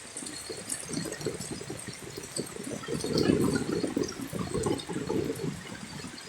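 Floodwater sloshing and gurgling in an uneven churn that swells to its loudest about halfway through.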